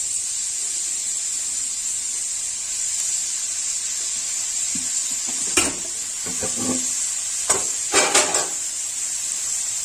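Chopped spring onion greens sizzling steadily in hot coconut oil in an aluminium kadai, with a few sharp knocks on the pan in the second half.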